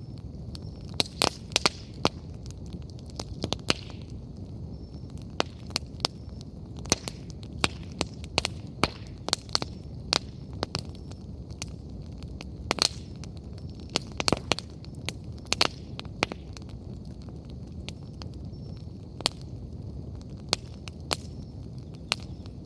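Wood bonfire burning, with irregular sharp crackles and pops of burning firewood over a steady low rush of flames.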